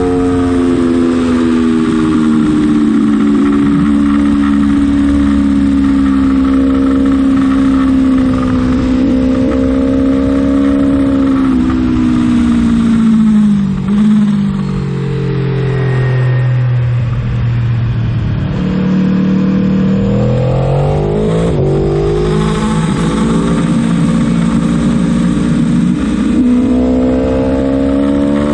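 Aprilia Tuono motorcycle engine at race pace: held at high revs for about ten seconds, then the revs drop away through roughly three seconds of braking, run low and steady for a few seconds, and climb hard again from about twenty seconds in with a brief click near the gear change. A steady rush of wind noise runs underneath.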